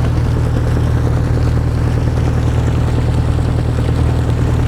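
Fishing boat's engine running steadily at idle, an even low hum with no change in speed.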